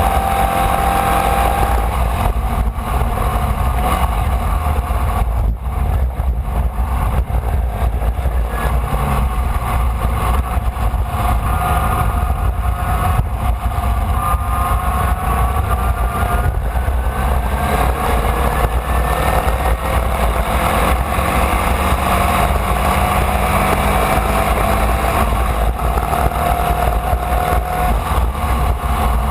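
Formula Vee's air-cooled Volkswagen flat-four engine running at racing speed, its pitch climbing slowly several times as the car accelerates, over a heavy low rumble of wind on the onboard microphone.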